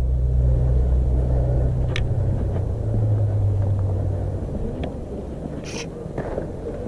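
Low, steady engine drone that fades away over a few seconds, with a couple of light clicks.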